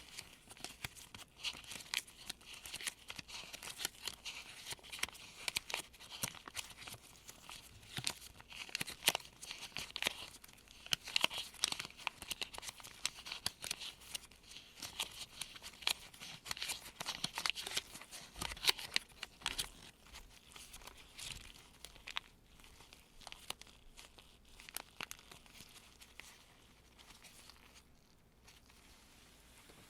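Gloved fingers sifting through folded US $1 paper bills: dense crinkling and rustling of the paper with many quick little snaps, thinning out in the last several seconds.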